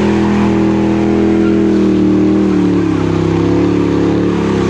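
Car engine held at high, nearly steady revs during a burnout, with the hiss of spinning tyres underneath.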